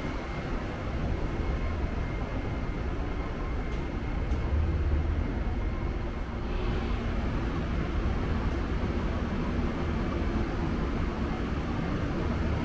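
Steady low rumble and hum of the Amtrak Auto Train standing at the platform with its bilevel Superliner cars, with a faint steady high whine.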